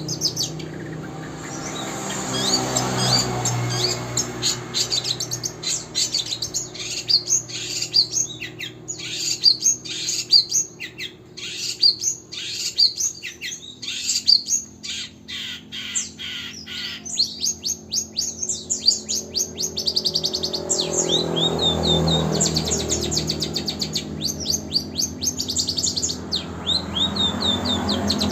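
Long-tailed shrike (cendet) singing a long, varied song of rapid high-pitched chattering trills and quick slurred notes, mimicking the fast 'tembakan' bursts of a canary.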